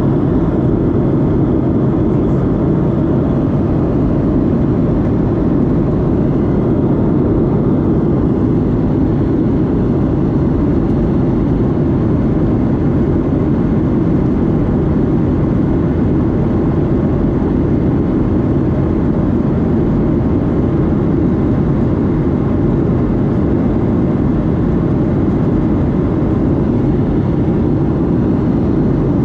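Steady, loud cabin noise of a Boeing 737-8 heard from a seat near the engine: the drone of its CFM LEAP-1B turbofans mixed with airflow.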